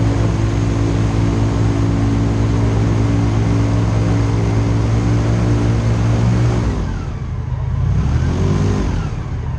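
Airboat engine and propeller running steadily, then throttled back about seven seconds in. The pitch drops, briefly rises and falls again, and settles at a low idle.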